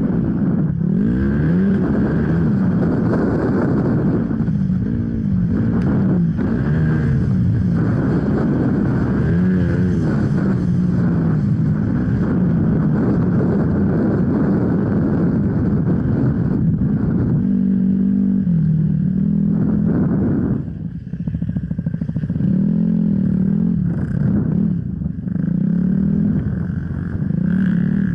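Off-road enduro motorcycle engine revving up and down continuously as it is ridden over rough trail, its pitch rising and falling with the throttle, with a brief easing off about twenty-one seconds in.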